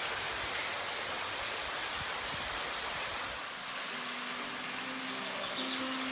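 Steady rush of running water inside a limestone cave. About three and a half seconds in it gives way to quick high bird chirps over soft held musical notes.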